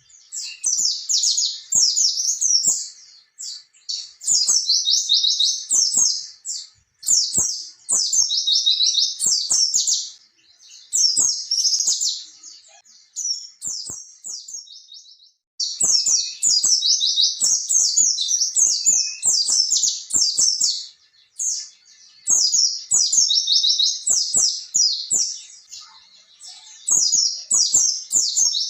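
White-eye (pleci) singing in long, fast runs of high twittering notes. The runs come in bursts of a few seconds, with short pauses between them.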